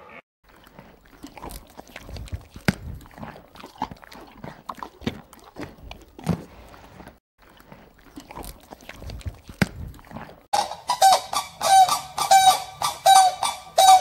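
Scattered short knocks and clicks, then from about ten seconds in a loud, fast run of honking animal calls, two or three a second.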